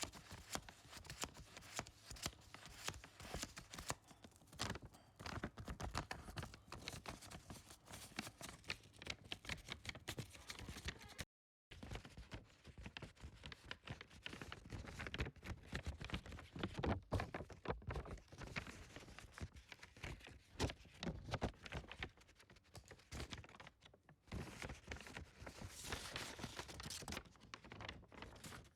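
Pencil scratching on paper in quick, irregular strokes, with a brief dropout about eleven seconds in.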